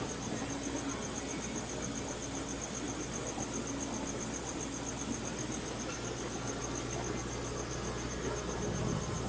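Steady hum and hiss of aquarium pumps and filters, with crickets chirping without a break in a fast, even, high-pitched rhythm. There is a brief low bump near the end.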